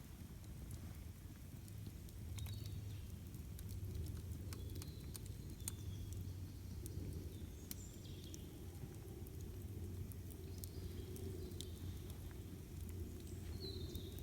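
Campfire burning with a steady low rumble and irregular sharp crackles and pops. A few short bird chirps sound in the background.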